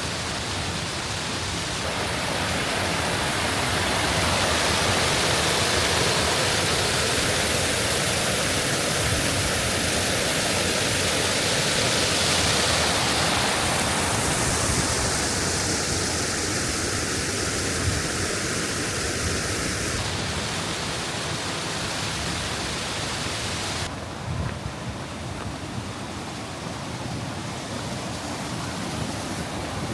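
Creek water rushing over small waterfalls, a steady full rush of noise that changes in tone a couple of times and becomes somewhat quieter about two-thirds of the way through.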